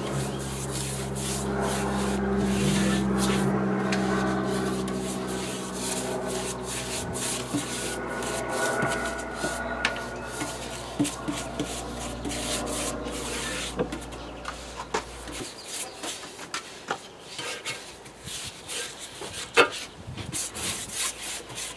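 Repeated scraping and rasping of a tool worked against the cast iron of a Meier & Weichelt workbench, cleaning up casting edges. A steady low motor hum runs under it and stops about two-thirds of the way through, after which only the scraping strokes remain.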